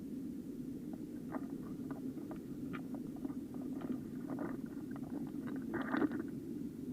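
Small mountain stream running steadily, with scattered light clicks and taps, and a short louder rustle about six seconds in.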